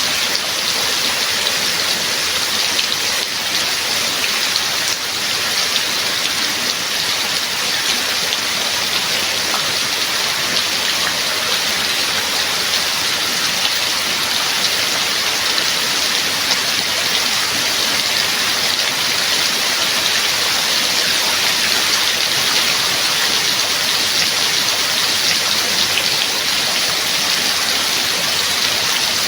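Steady rain falling: a dense, even hiss of countless drop patters that never lets up.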